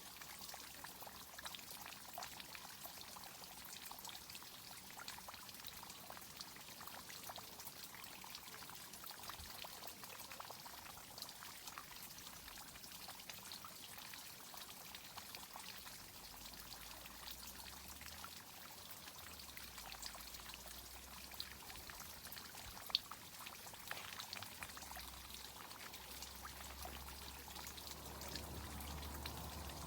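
Water from a tree-watering irrigation system pouring and trickling, with many small patters and drips. A low rumble joins about halfway through.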